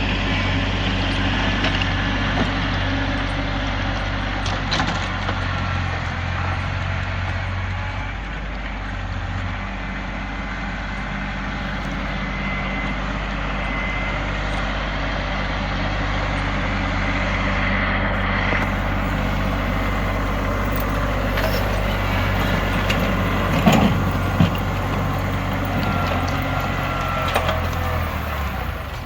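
New Holland tractor engine running steadily while clearing heavy, wet snow. Its note eases for a few seconds about a third of the way in, and two sharp knocks sound near the end.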